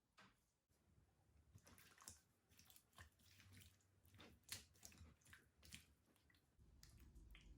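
Faint, irregular wet squelching and clicks from raw chicken breast pieces being worked in a milk and egg marinade in a mixing bowl.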